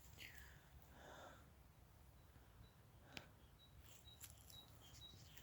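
Near silence: faint outdoor ambience, with a single faint click about three seconds in and a few faint, short, high peeps near the end.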